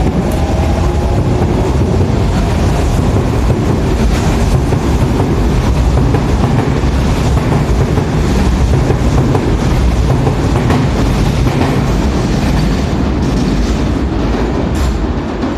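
Sotetsu 8000-series electric train rolling past at speed, its wheels clattering over the rail joints with a heavy, steady rumble. The sound falls away at the very end.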